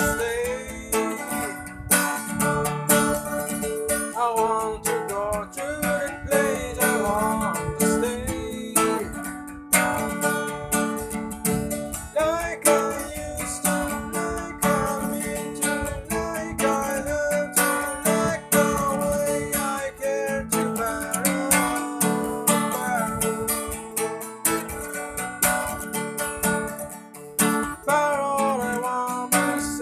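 Instrumental section of a band's song: strummed guitars under a lead guitar melody that bends in pitch, over a steady beat of sharp hits.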